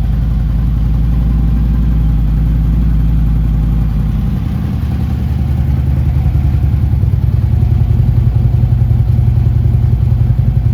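2011 Harley-Davidson Ultra Limited's Twin Cam 103 V-twin engine idling with its lumpy beat. Its pitch and loudness rise a little about halfway through.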